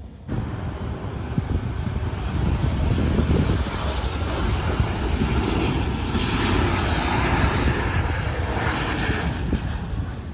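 Airliner engines running loud as a plane moves at the airport. The sound starts abruptly, rumbles heavily underneath, and carries a faint high whine around the middle.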